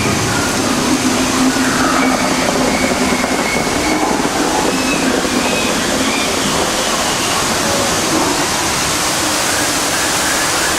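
Steady rush of falling water, as from a waterfall, with a few faint high calls over it.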